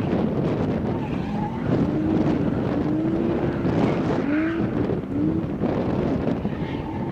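Drift car's engine revving up and down several times as the car slides sideways, under heavy wind noise on the microphone.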